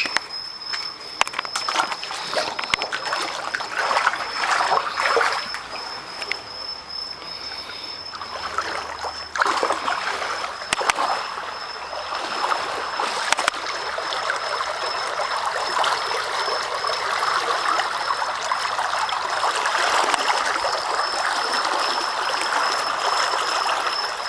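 Fast-flowing floodwater rushing and splashing across a flooded road, turning into a steadier, fuller rush about halfway through. A thin, high, evenly pulsing tone runs on underneath.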